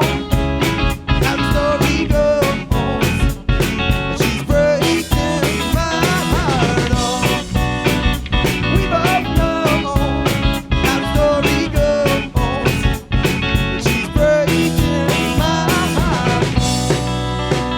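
Live band playing an instrumental passage: a drum kit keeps a steady beat under a guitar playing a melodic line with bent notes.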